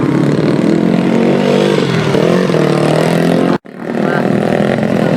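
Motocross and grasstrack dirt bikes racing, several engines revving up and down at once. The sound cuts out abruptly for a moment about three and a half seconds in.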